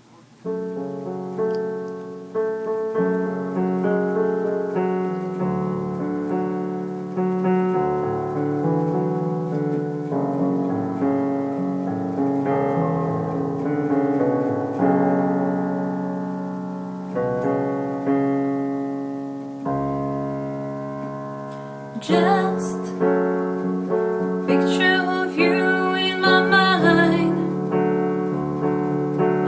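Piano playing a slow run of chords, each struck and left to ring and fade. About two-thirds of the way through, a singing voice comes in over the piano.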